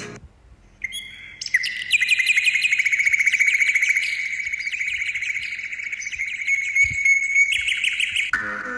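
A bird singing one long, rapid, high trill, starting about a second in.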